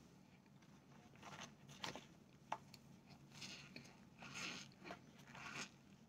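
Chewing a mouthful of cornstarch chunks: a run of soft, squeaky crunches at irregular intervals, grouped more densely and a little louder in the second half.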